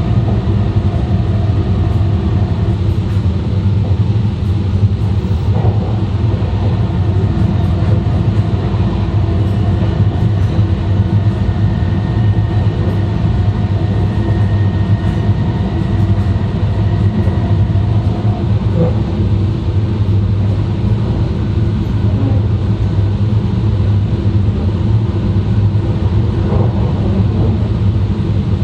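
E2 series Shinkansen running at speed, heard from inside the car vestibule: a steady, even rumble of wheels on rail and car body noise.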